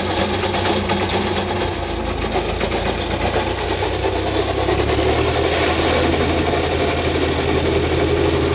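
Farm tractor engine running steadily, with a slight change in its note about five seconds in.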